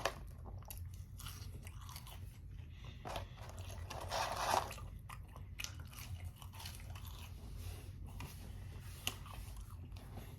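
Close-miked chewing and crunching of french fries: irregular small mouth clicks and bites, with a louder crunchy stretch about four seconds in.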